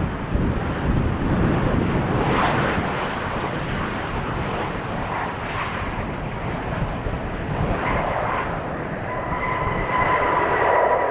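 Jet airliner engines rumbling, with a steady high whine coming in near the end and falling slightly in pitch.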